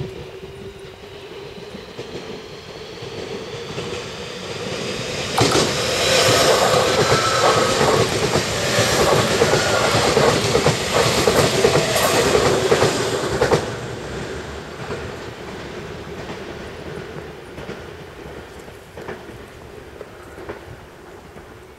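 A Nankai Koya Line electric commuter train passes close by. The sound builds, then turns suddenly loud about five seconds in, with the wheels clattering over rail joints for about eight seconds before it cuts down and fades away.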